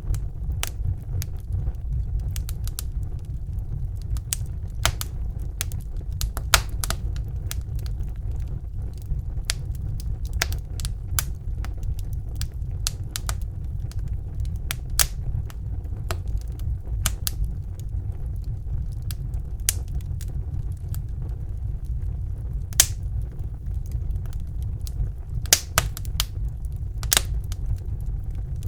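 Wood fire burning in a fireplace: a steady low rumble of the flames with irregular sharp crackles and pops, a few louder snaps near the end.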